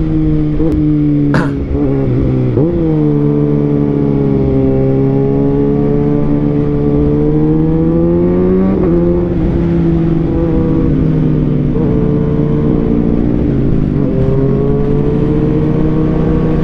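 Kawasaki Ninja ZX-6R's 636 cc inline-four engine pulling under way through an aftermarket Austin Racing exhaust, pitch rising with the revs and dropping sharply at upshifts about two and a half and nine seconds in, with another brief dip and climb near the end.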